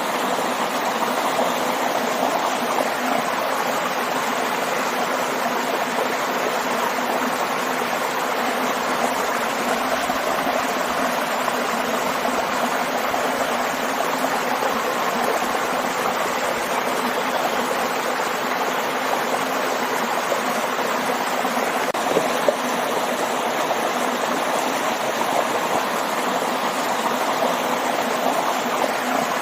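Steady rush of a waterfall and stream, water splashing and flowing continuously.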